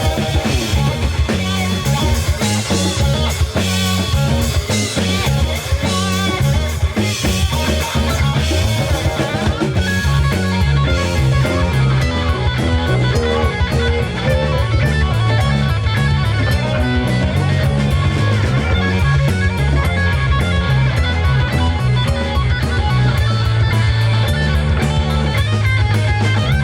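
Live rock band playing an instrumental passage: electric guitar over a moving bass line and a drum kit.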